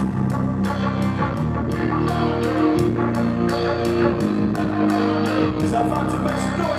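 Live rock band playing: held electric guitar notes over bass, with a steady cymbal beat about three times a second.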